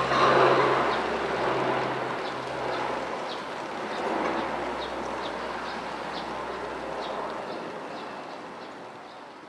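Steady hiss of heavy rain over a low, constant hum, slowly fading out toward the end.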